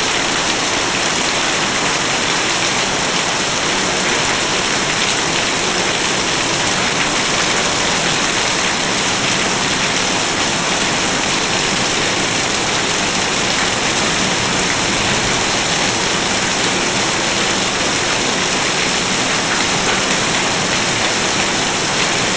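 Loud, steady rainfall: an even hiss of rain on surfaces that does not let up.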